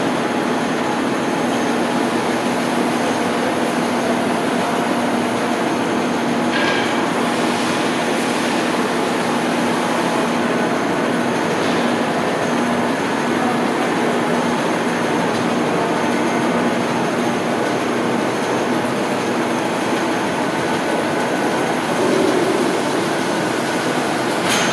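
Blanchard #22K-42 vertical rotary surface grinder running: a steady machine hum and hiss that starts suddenly.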